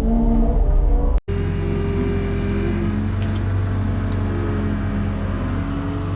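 Skid loader's diesel engine running steadily under the operator, with a brief drop-out about a second in.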